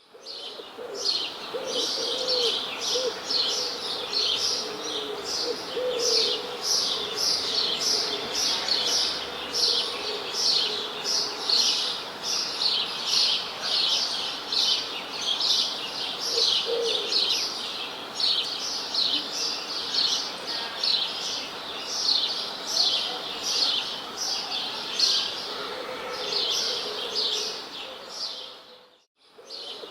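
A chorus of birds chirping: a dense, continuous run of quick, high, falling chirps, several a second, with a few lower calls now and then. The sound fades out shortly before the end and comes back in.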